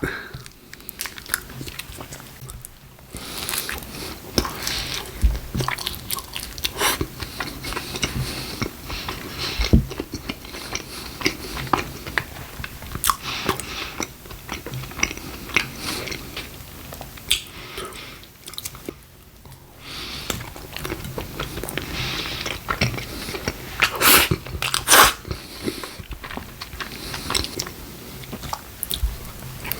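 Close-miked chewing and biting of a stacked Taco Bell five-layer beef burrito, mouthful after mouthful, with brief pauses about three seconds in and again near twenty seconds.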